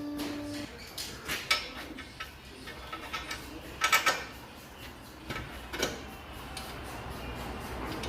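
Metal tools and parts clinking and clanking under a car during reassembly, several separate knocks with the loudest pair about four seconds in. A steady hum cuts off just under a second in.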